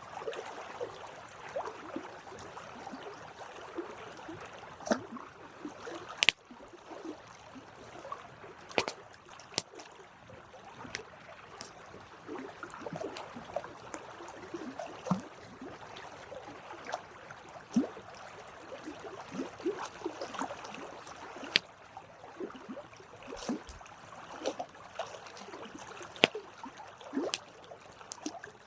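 Wood campfire crackling: a soft steady hiss of burning with irregular sharp pops and snaps, a few of them much louder than the rest.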